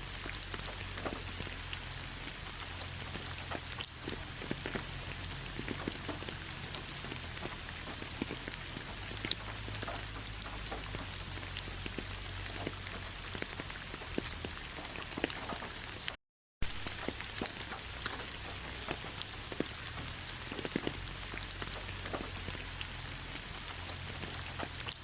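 Rain falling on a bed of fallen leaves: a steady patter made of many separate drop ticks. It drops out for a split second about two-thirds of the way through.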